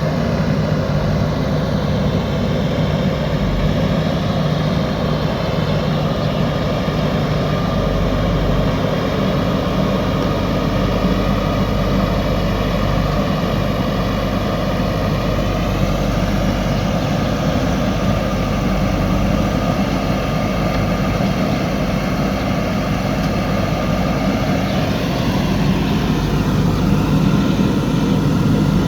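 JCB 3DX backhoe loader's diesel engine running steadily while the machine works. Its pitch shifts around the middle and rises near the end as the engine is revved.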